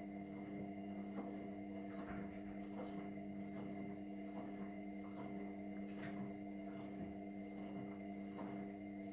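Indesit washing machine running on a bleach cleaning cycle, giving a steady hum with faint, irregular clicks.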